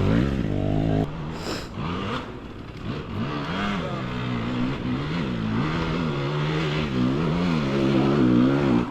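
Dirt bike engine revving up and down again and again, the throttle opened and closed about once a second. About a second in the sound drops in level suddenly.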